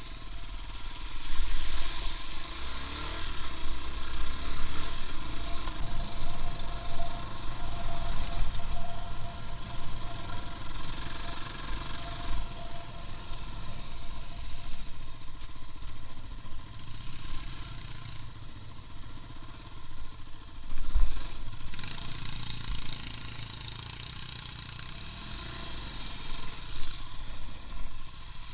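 A motor vehicle's engine running, a steady rumble with road noise.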